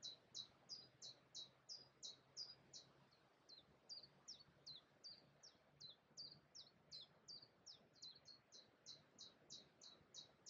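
A small songbird singing a long run of short, high chirps, each sliding downward, at about three a second with hardly a break.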